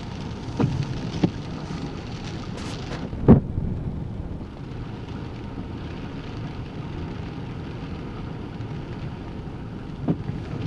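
Car driving, with a steady rush of road and tyre noise and a few dull thumps: two close together near the start, the loudest about three seconds in, and another near the end.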